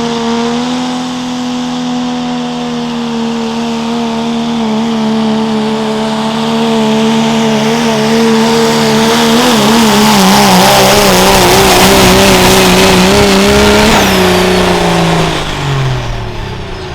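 Turbocharged diesel pulling truck making a sled pull, its engine held at high revs and getting louder as it comes down the track. Its note wavers partway through as the truck bounces under load. Near the end the engine and a high turbo whine drop off together as the driver lets off.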